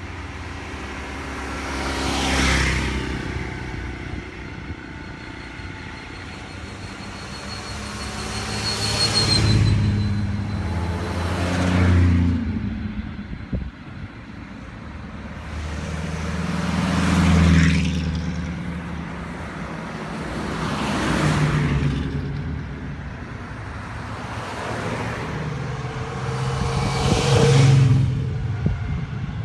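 Classic cars passing by one after another, about six in all. Each engine note swells as the car approaches and fades as it goes.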